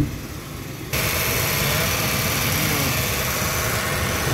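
A car door shuts with a thump, then from about a second in the SUV's engine idles steadily under the open bonnet, with a constant hiss.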